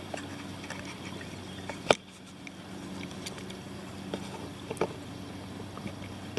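Kayak paddling: light water splashing and drips from the paddle strokes, with scattered small knocks and one sharp knock about two seconds in, over a steady low hum.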